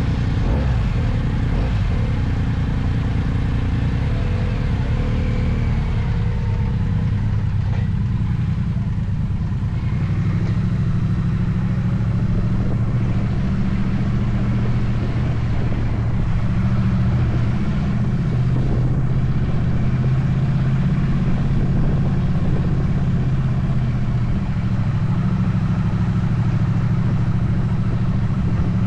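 Motorcycle engine running steadily, its pitch shifting a few times as it goes.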